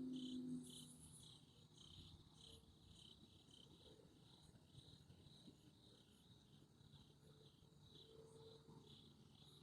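Crickets chirping faintly, a steady rhythm of short high chirps about three a second. A short low hum sounds right at the start.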